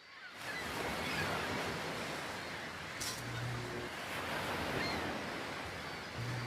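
Sea waves and surf washing steadily, fading in at the start.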